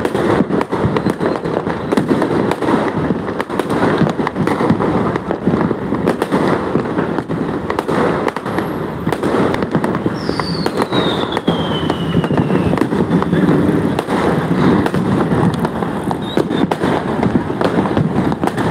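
Many aerial fireworks and firecrackers going off across a city at once: a dense, unbroken crackle of bangs and pops, near and far. About ten seconds in, a whistle falls in pitch over two seconds or so.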